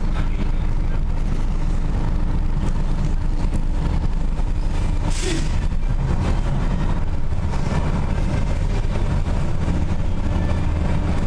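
Steady low rumble of a moving vehicle, with a brief hiss about five seconds in.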